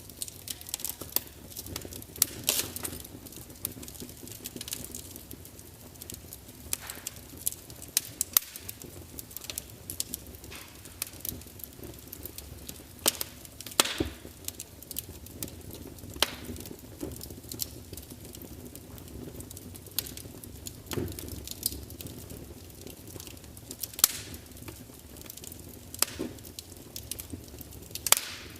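Wood fire burning in a large open fireplace, crackling steadily with a low rumble and irregular sharp pops and snaps from the logs.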